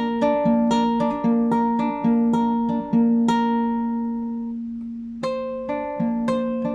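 Solo classical guitar improvising: single plucked notes over a repeated low note. About halfway through a note is left to ring for a couple of seconds before the picking picks up again.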